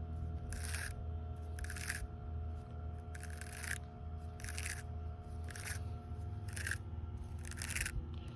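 Fishing line pulled off a backlashed baitcaster spool in repeated hand-over-hand tugs, a short rasp about once a second, over a steady low hum.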